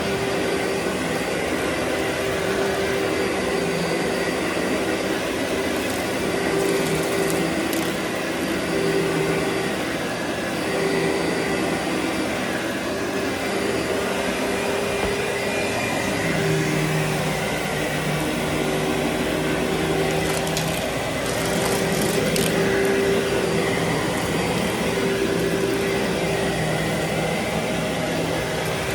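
Vacuum cleaner running steadily on carpet, a constant motor hum with a slight waver in pitch, and a few faint crackles from debris picked up now and then.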